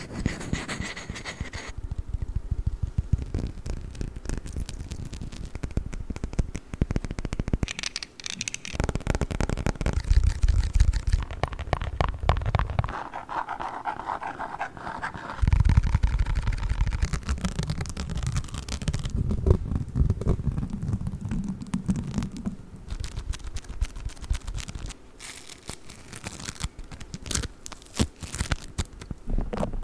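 A fast montage of close-miked ASMR trigger sounds: tapping, scratching and crackling on handled objects, switching to a new texture every few seconds.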